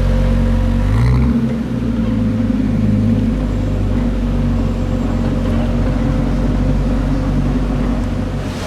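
A car engine running with a steady low rumble, its pitch shifting briefly about a second in as the revs change.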